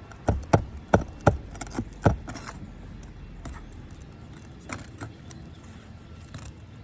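Nails being worked loose from old, brittle asphalt roof shingles: a quick run of sharp clicks and taps of a tool on shingle and nail in the first two seconds, then a few scattered clicks.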